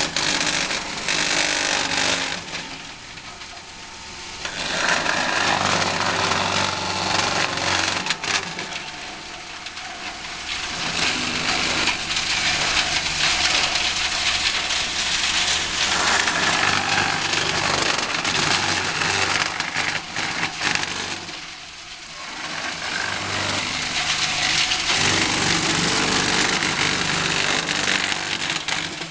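Wood crusher-chipper running and chipping branches: loud grinding and crackling, easing off about three times to the quieter steady running of the machine between loads.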